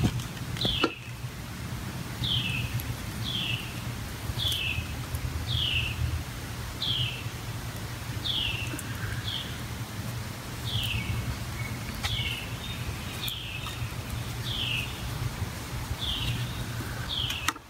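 A bird calling a short falling chirp over and over, about one to two a second, over a low steady hum.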